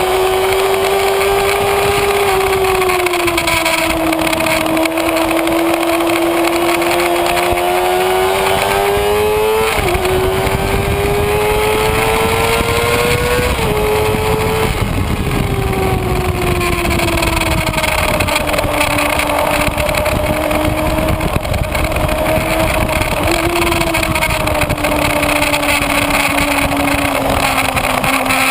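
Kawasaki Ninja ZX-6R inline-four engine at speed, heard onboard: the revs climb, drop sharply at upshifts about ten and fourteen seconds in, then fall away as the throttle is eased and settle, with a short blip near the end. Wind rush runs under it.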